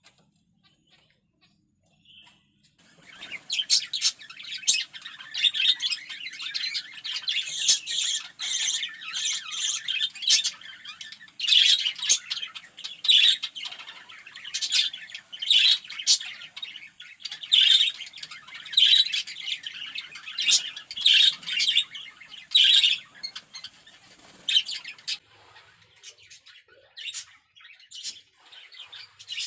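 Zebra finches calling in an aviary: a rapid, continuous stream of short, high calls that starts about three seconds in.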